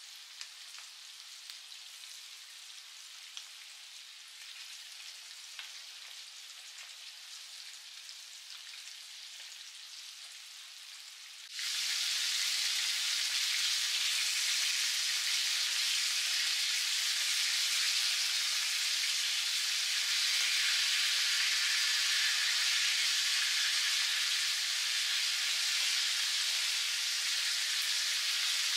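Flour-coated chicken wings sizzling in hot oil in a frying pan, a steady hiss with small scattered crackles. A little under halfway through the sizzle suddenly becomes much louder and denser and stays that way.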